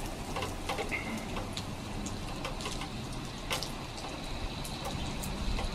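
Rain falling, with scattered drops ticking irregularly on nearby surfaces over a steady hiss.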